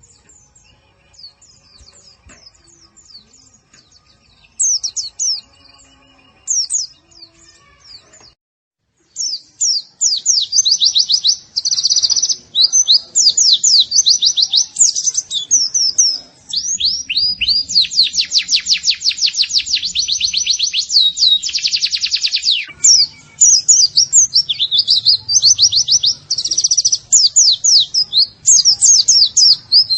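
White-eye (pleci) song from a bird-training tutor recording. Faint, scattered high chirps give way after a brief break to loud, fast, continuous twittering and rapid trills from about nine seconds in.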